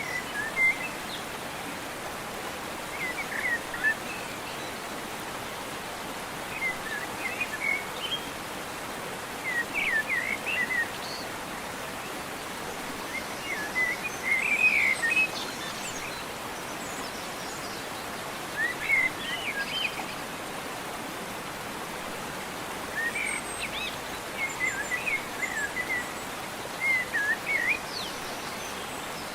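Short, chirpy bird calls in brief phrases every couple of seconds, over a steady outdoor hiss of background noise.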